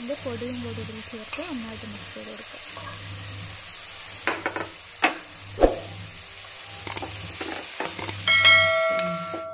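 Onion-tomato curry masala sizzling as it fries in an aluminium pot, stirred with a wooden spatula that knocks against the pot a few times around the middle. Near the end a bell chime rings out and fades: the notification sound of a subscribe-button animation.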